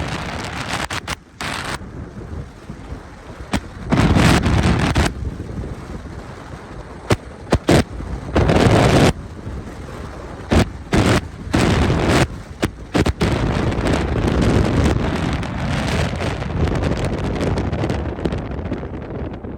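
Rain and wind in a thunderstorm, with loud gusts buffeting the microphone several times and many sharp short taps.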